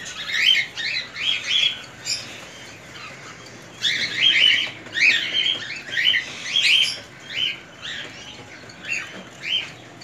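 Small cage birds chirping in clusters of quick high notes, with a quieter spell of about two seconds before the chirping picks up again.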